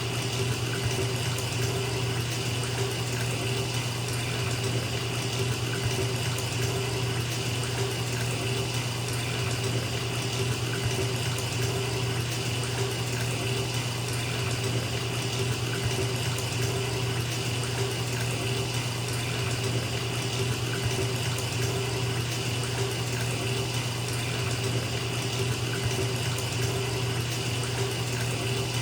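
Bathtub tap running, water pouring steadily into the filling tub.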